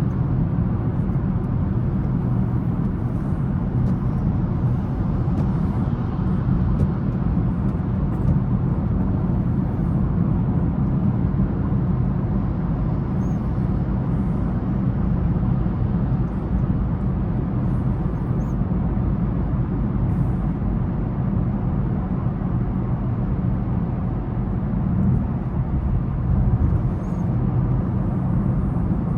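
A car being driven through city streets: a steady low rumble of engine and tyre noise on the road, with no sharp events.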